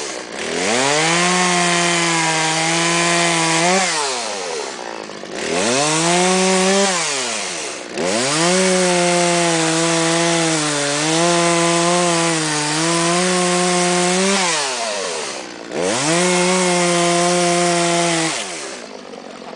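Chainsaw carving wood, revved to high speed four times, each time held for a few seconds and then dropping back toward idle. During the longest run the speed sags slightly a few times.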